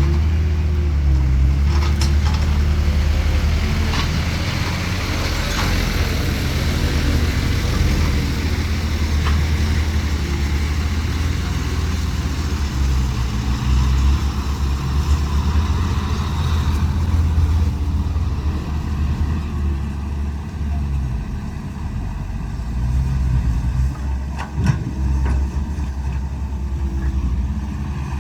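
Heavy diesel machinery engine running steadily under varying load, with a few faint knocks.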